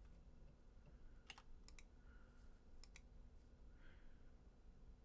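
Faint, scattered computer clicks about one to three seconds in, some in quick pairs, over a low steady hum.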